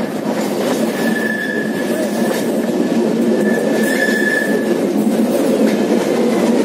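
Passenger train running along the track, with a steady rumble of the wheels and coaches. From about a second in to nearly five seconds a thin, steady high squeal comes from the wheels as the train takes a curve.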